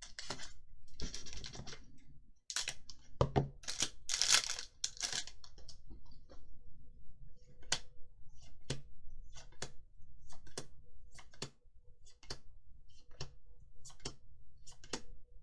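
Magic: The Gathering cards and booster pack wrapper being handled: crinkly rustling over the first few seconds, then cards flicked through one at a time, a sharp click about once a second.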